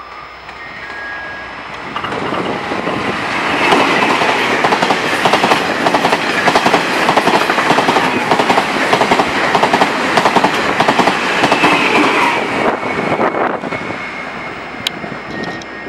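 Taiwan Railways passenger train passing close by, its wheels clattering over the rail joints in a fast, even run of clicks. It builds from about two seconds in, is loudest in the middle, and falls away fairly suddenly near the end.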